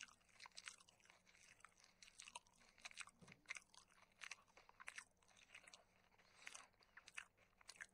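Faint, close-up chewing and crunching of food by a person eating raw green vegetable stalks and pork, with many quick, irregular crunches and mouth clicks.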